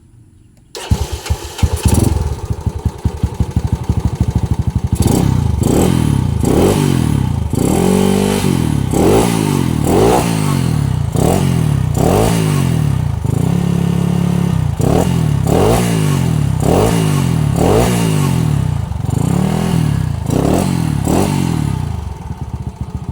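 Yamaha Jupiter motorcycle running through a Yamaha Mio scooter's muffler. It starts up about a second in and idles briefly, then is revved in quick throttle blips about once a second, with two longer held revs, and settles back to idle near the end.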